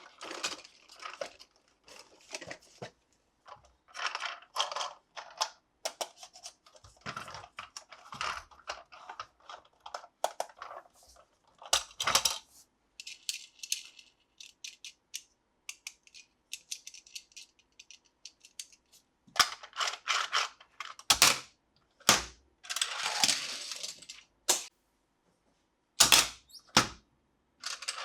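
Hard plastic toy pieces being handled: a run of irregular clicks, taps and rattles, with a few longer bursts of crinkly rustling.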